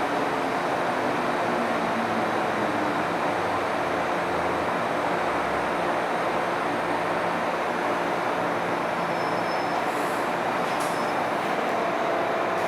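MTR M-Train metro car heard from inside the cabin while running along the track: a steady rumble of wheels, rails and traction equipment.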